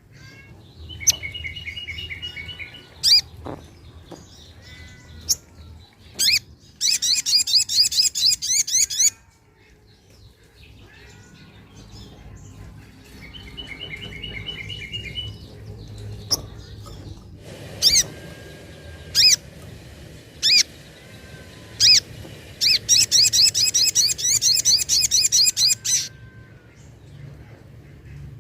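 Little spiderhunter (sogok ontong) calling: sharp single chips, short lower trills, and long fast runs of repeated high notes, twice.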